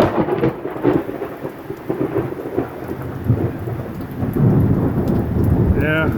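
Thunder following a lightning flash: sharp crackling at first, then a deep rumble that swells again after about four seconds, over steady rain.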